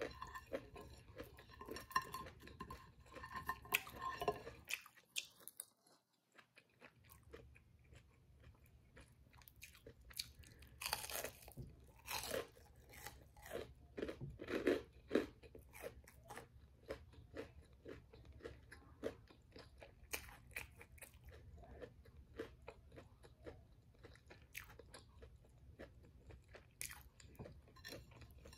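Close-miked chewing of crisp battered fried food: repeated crunchy bites and chews. There is a brief quiet pause about five seconds in, and the loudest crunches come near the middle.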